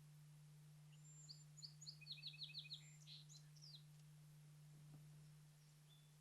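A songbird singing one short, faint song: a few high thin notes, a quick trill of about six notes, then a few sweeping notes. A steady low hum runs underneath.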